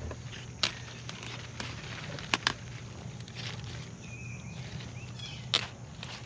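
A few sharp clicks or snaps, a close pair of them about halfway through, over a steady low hum, from someone moving and handling plants in a garden.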